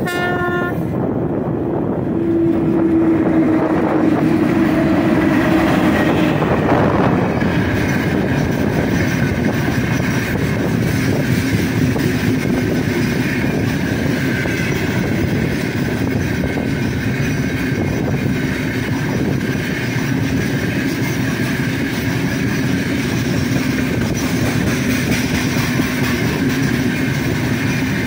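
3ES5K 'Ermak' electric locomotive sounding its VL80TK-type whistle: a short toot at the start, then a longer blast of about five seconds as it approaches and passes. After that, the steady rumble and clickety-clack of a long freight train's wagons rolling past.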